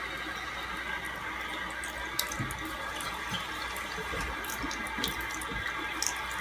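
Running water, a steady rush with scattered light clicks and knocks.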